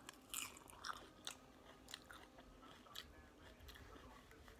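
A person chewing a mouthful of hibachi shrimp, chicken and fried rice close to the microphone: faint, irregular wet mouth clicks, a few sharper ones in the first second or so, then softer ones.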